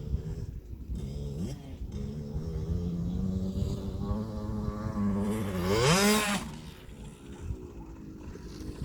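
KTM 65 SX's small single-cylinder two-stroke engine revving on a motocross track, its pitch climbing about a second and a half in, holding, then rising sharply to its loudest about six seconds in before the sound drops away.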